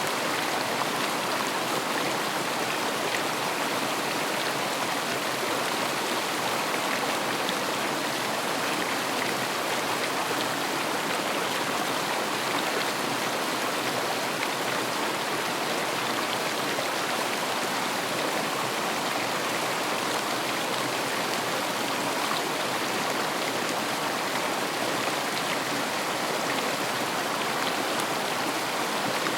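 River water rushing and burbling over stones, a steady even flow without a break.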